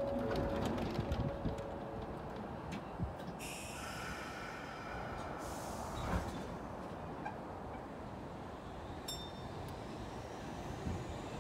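Sotetsu New 7000 series electric train at a platform. Its doors close with a hiss and a knock about six seconds in, then the train starts to pull away, its motor whine rising in pitch near the end.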